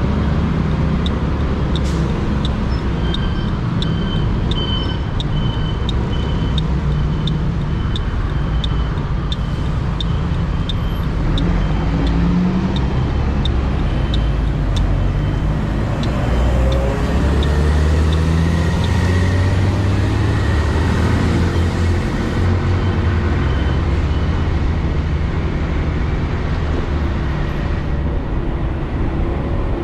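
Wind rumble on a helmet-mounted GoPro Hero 8, damped by a foam wind-noise sponge, over a motorcycle engine running at road speed. The engine's pitch rises and falls in the second half. A regular high ticking, about two a second, runs through the first half.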